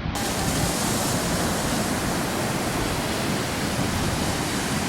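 Steady rushing noise of ocean surf with wind buffeting the microphone.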